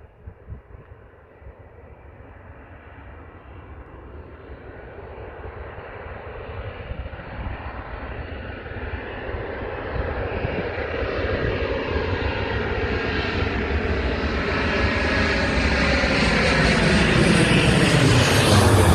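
Airplane on landing approach, its engine noise growing steadily louder and brighter as it comes closer, loudest near the end.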